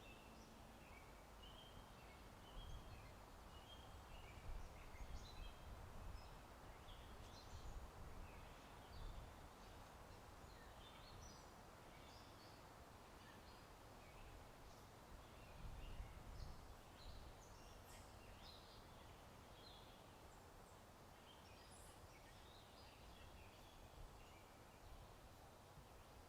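Faint outdoor ambience of many small birds chirping and twittering, over a low wind rumble that swells in gusts a few seconds in and again about midway.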